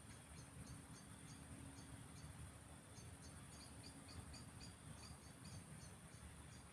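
Faint countryside ambience: a steady high insect drone with short, high chirps repeating several times a second over a low rumble.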